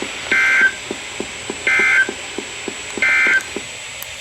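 EAS/SAME end-of-message signal from NOAA Weather Radio: three short bursts of two-tone digital data screech, about a second and a half apart, marking the end of the Tornado Watch broadcast. A faint regular ticking, about three a second, runs underneath.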